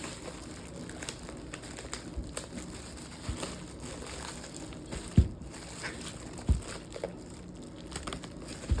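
Plastic wrapping crinkling as a head of cauliflower is handled, with a few dull thumps in the second half.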